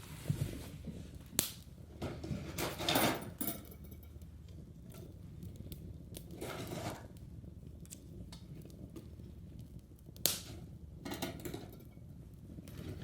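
Firewood and kindling in an irori-style wood fireplace: three sharp cracks or knocks and several short crunching, scraping noises.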